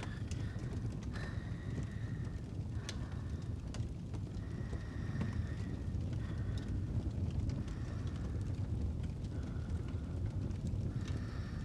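Fireplace ambience: a steady low rumble with scattered crackles and pops of burning wood. Faint high whistling tones come and go several times.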